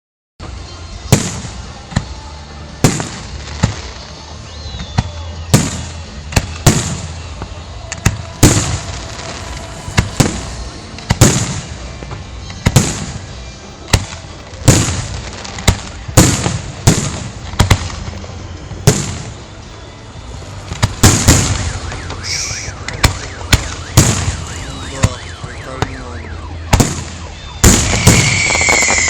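Fireworks display: aerial shells going off in a string of sharp bangs about a second apart over a continuous rumble. Near the end a louder hissing stretch comes in, with a falling whistle.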